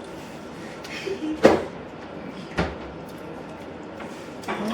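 Two sharp knocks about a second apart, the second with a dull low thud, typical of a cupboard door or dishes being handled.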